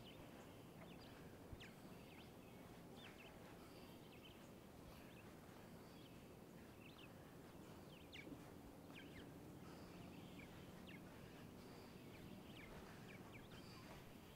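Faint outdoor ambience with small birds chirping now and then, short falling chirps scattered throughout, and a single faint knock about a second and a half in.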